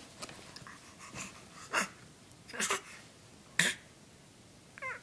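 A baby boy making three short, breathy huffs, about a second apart.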